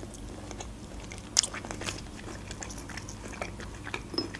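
Close-up chewing of soft fresh apricot: wet mouth noises and small clicks, with one sharper click about a second and a half in.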